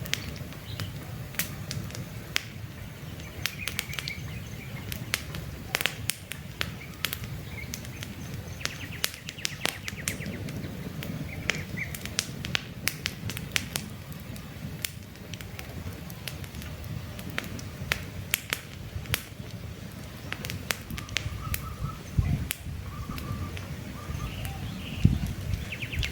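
Wood campfire crackling, with frequent sharp pops and snaps over a low steady rumble. Birds chirp briefly in the background at several points.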